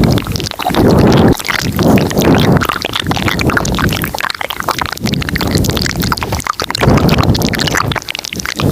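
Layered ASMR mouth sounds recorded very close to the microphone: a dense stream of wet clicks and smacks over low, breathy swells that come and go every second or two.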